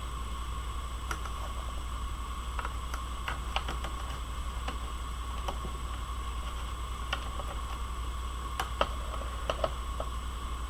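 Scattered, irregular light clicks and ticks from paper and card-making tools being handled, over a steady electrical hum and hiss from the webcam microphone. A couple of sharper clicks come near the end.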